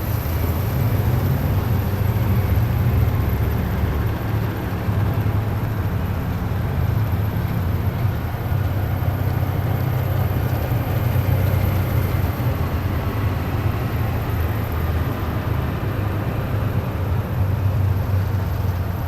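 Heavy military vehicles driving past in a column, a continuous deep engine rumble with a faint whine above it.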